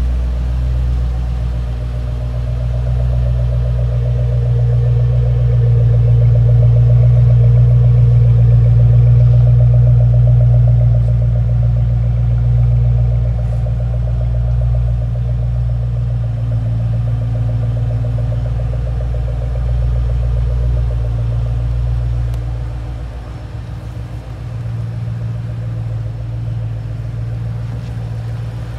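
2008 Ford Shelby GT500's supercharged 5.4-litre V8 idling steadily, a low even rumble that swells louder for several seconds partway through and then eases back.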